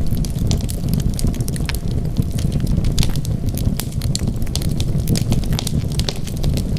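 Wood fire burning steadily: a low rumble of flames with frequent sharp crackles and pops of burning wood.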